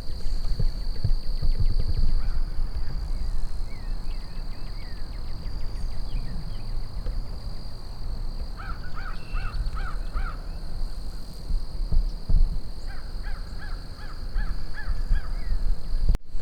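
Crows cawing in two runs of about five caws each, with small birds chirping and a steady high whine behind them. Wind rumbles on the microphone.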